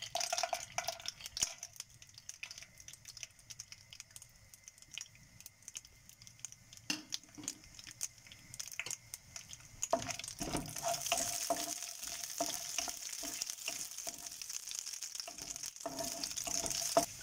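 Cashew nuts frying in ghee in a pan: a sizzle with many small crackles and clicks, and a wooden spatula stirring and tapping against the pan. The sizzle grows louder about ten seconds in.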